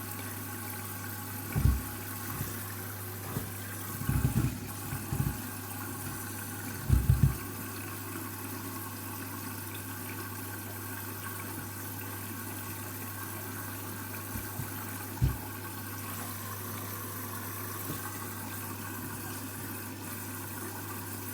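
Candy washing machine filling with water at the start of a cycle: a steady rush of water with a constant low hum, broken by a few dull thumps, the loudest about seven seconds in.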